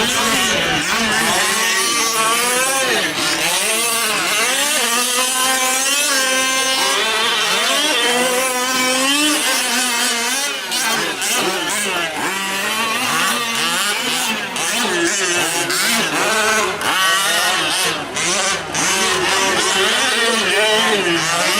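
Several 1/5-scale gas RC trucks' small two-stroke engines revving up and down as they race around the track, their whining pitches overlapping and sweeping as the trucks accelerate, brake and pass.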